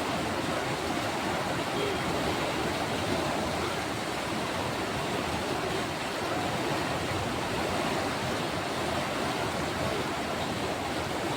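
Steady rush of flowing floodwater, an even unbroken noise.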